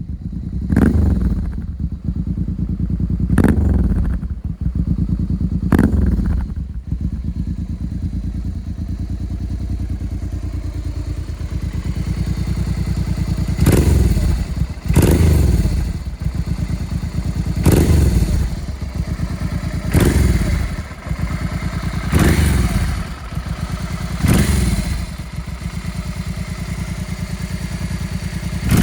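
Honda Bros 650's V-twin idling through a modified stock left-exit exhaust with an aftermarket silencer, blipped repeatedly: short throttle blips that fall back to idle, four in the first six seconds, steady idle for about seven seconds, then six more about two seconds apart. The exhaust has a crisp note.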